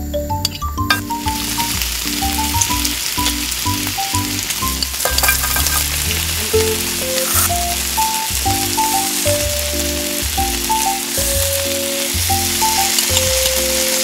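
Potato chunks frying in hot oil in a miniature stainless-steel wok: a steady sizzle that starts about a second in, over background music.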